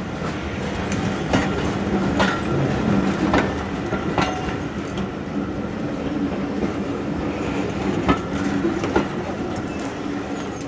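Railway passenger coaches rolling past close by: a steady rumble of steel wheels on rail, with sharp clacks as the wheelsets cross rail joints. The sound eases off near the end as the train draws away.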